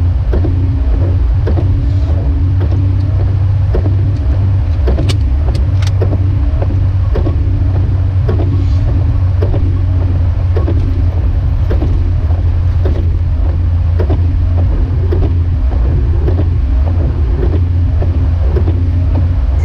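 Jeep Wrangler YJ driving on a snowy road: a steady low engine and road rumble, with a light knock repeating a little under twice a second.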